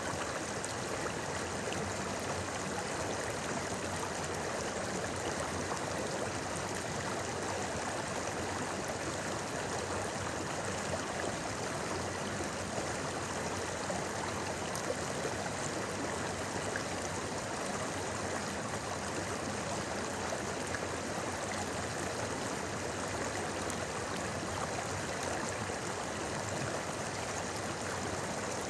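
A shallow river running over stones: steady, even babbling and rushing water.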